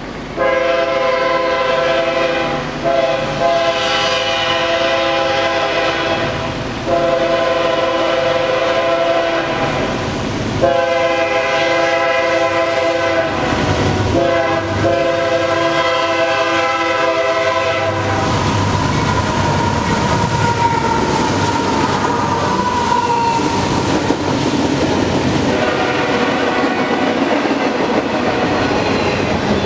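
Locomotive air horn sounding a series of long blasts, then a train rolling past with steady rumble and wheel clatter on the rails.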